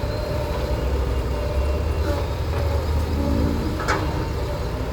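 Heavy diesel engine running steadily with a low rumble, with one sharp knock about four seconds in.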